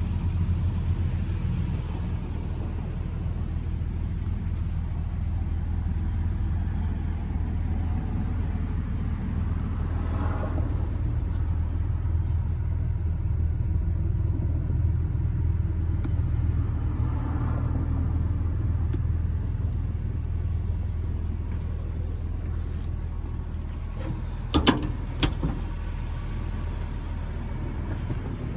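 Porsche Boxster 986 flat-six engine idling steadily with a low rumble. Near the end, two sharp knocks come in quick succession.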